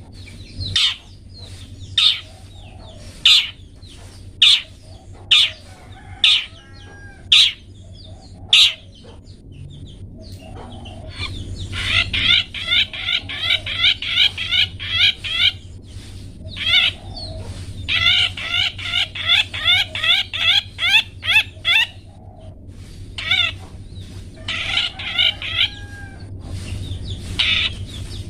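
Long-tailed shrike (cendet) calling: sharp single 'toet' notes about once a second for the first nine seconds, then several bursts of rapid, fast-repeated chattering notes lasting a few seconds each.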